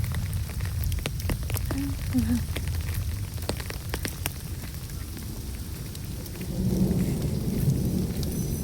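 Rain falling, with scattered sharp ticks of drops and a strong low rumble underneath that swells about two-thirds of the way through.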